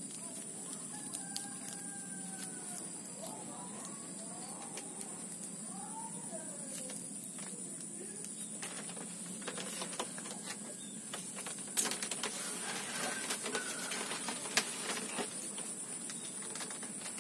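Birds calling a few times over a steady high-pitched whine, then light clicks and rustling of close handling in the second half.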